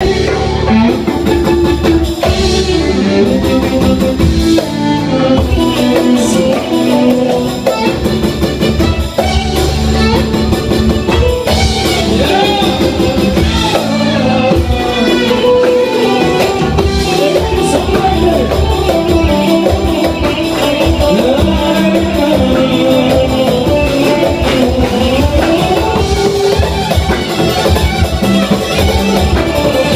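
Live music with a melodic line, likely sung, over instrumental accompaniment and a steady percussion beat.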